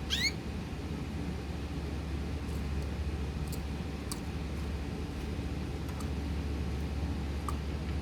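A pet bird gives one short chirp rising sharply in pitch at the start, followed by a few faint, very short high cheeps, over a steady low hum.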